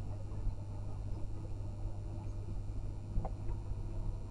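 Steady low rumble of a passenger train running, heard from inside the carriage, with a faint brief squeak about three seconds in.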